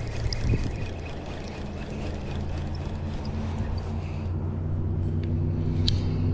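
A motor engine hums steadily at a constant pitch, growing gradually louder as it approaches.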